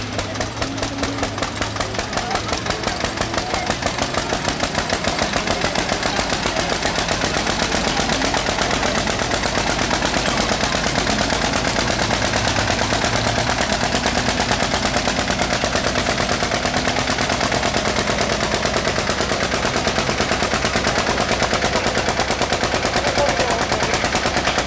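Tractor engine running hard with a loud, rapid, even chugging of exhaust beats, several a second, growing louder over the first few seconds and then holding steady.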